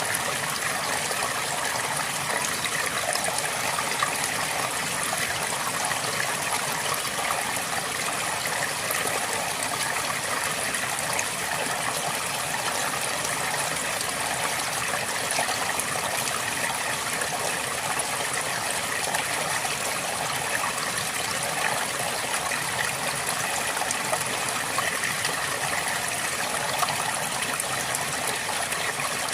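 River water flowing over rocks in a steady, unbroken rush with small splashing and gurgling.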